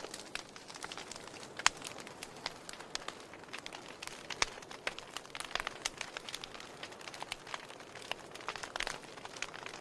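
Fire burning in a fireplace, crackling with many irregular sharp pops; one louder pop about a second and a half in.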